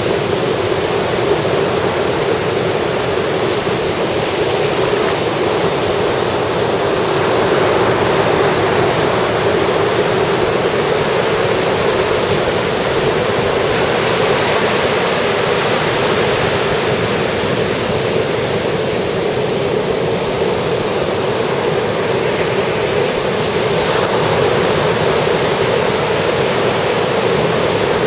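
Ocean surf breaking and washing ashore on a beach: a continuous rushing wash that swells a little as waves come in.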